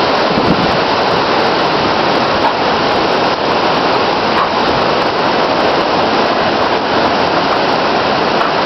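Hurricane wind and rain: a loud, steady rushing noise without let-up.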